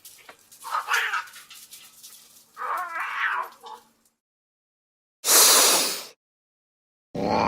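Angry domestic cat yowling twice in drawn-out, wavering calls, then a loud, short hiss about five seconds in. A different sound with several steady tones starts just before the end.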